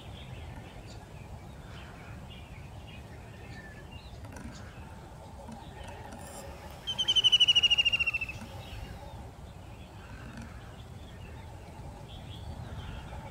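Outdoor wetland ambience with faint scattered bird chirps. About seven seconds in comes one loud, rapidly trilled bird call that slides down in pitch and lasts about a second and a half.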